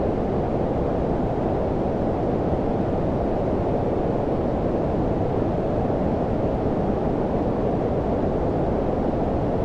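Steady low-frequency noise, a deep, muffled hiss like brown noise with most of its weight in the bass and low mids and little treble, unchanging throughout.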